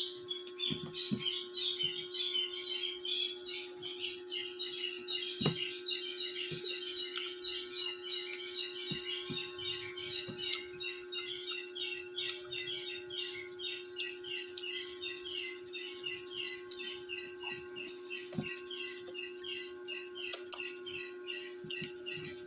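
Many small birds chirping rapidly and without pause, over a steady low hum, with a few scattered clicks.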